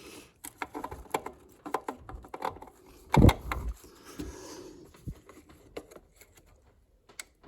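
Scattered clicks, taps and light clatter of hand tools and small metal parts being handled on an engine, with one louder knock about three seconds in; quieter near the end.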